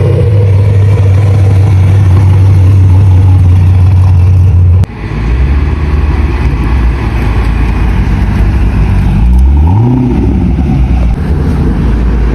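Car engine running close by with a steady, loud low drone. It changes abruptly about five seconds in to another engine's rumble, which revs up and back down once about ten seconds in.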